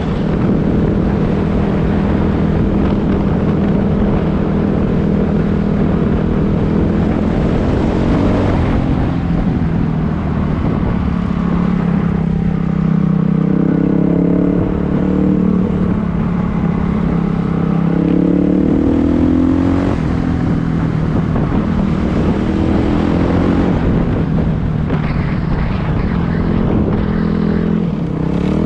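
Dirt bike engine running under way, its pitch rising and falling with the throttle as the bike is ridden.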